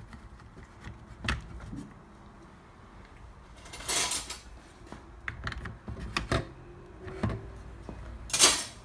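Hard plastic clicks and knocks from a Dyson Animal's brush bar and end cap being fitted back into the cleaner head, with two short scraping rustles, the louder one near the end.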